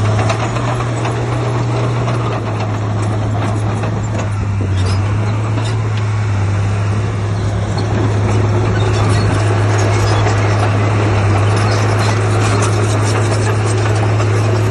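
Heavy diesel earthmoving machinery running steadily, a deep engine hum with clattering noise over it, the engine note shifting slightly in the first couple of seconds.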